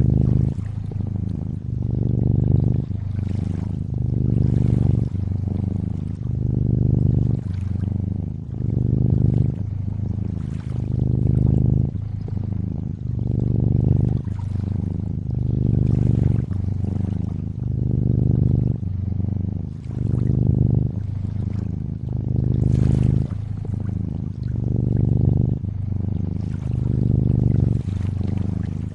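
Cat purring steadily, its low rumble swelling and easing about every two seconds with each breath in and out, over water trickling softly.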